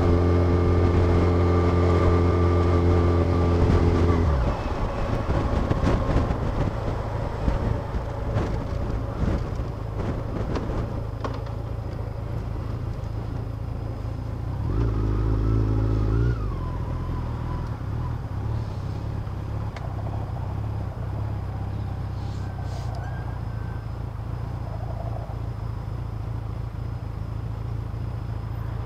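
Motorcycle engine running under throttle at a steady pitch for the first four seconds, then backing off as the bike slows. The engine pulls briefly again about fifteen seconds in, then settles to a low steady idle while the bike is stopped.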